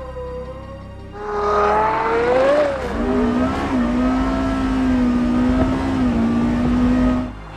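Porsche Carrera GT's V10 engine through a Kreissieg exhaust, revving hard: it climbs in pitch from about a second in, dips briefly, then holds one steady high pitch for about four seconds before cutting off sharply near the end.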